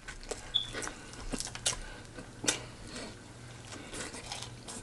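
A person chewing fried chicken close to the microphone: soft wet chewing with a scattered run of short clicks and lip smacks, the sharpest about halfway through.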